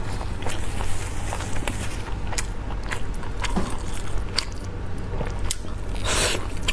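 Close-miked chewing of braised meat, with scattered wet mouth clicks and smacks. A longer bite near the end, as meat is torn off the bone, over a low steady hum.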